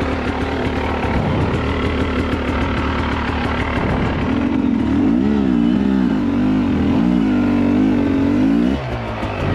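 Dirt bike engine revving under repeated throttle blips, its pitch swinging up and down several times in the second half before dropping back near the end.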